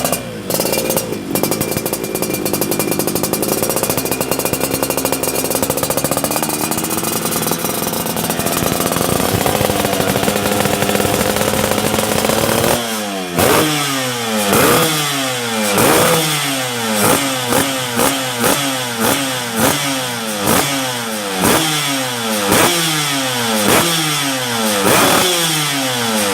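Two-stroke motorcycle engine through an aftermarket racing exhaust, running steadily with its pitch drifting gently, then from about halfway being blipped on the throttle again and again, roughly once a second, the revs snapping up and falling back each time.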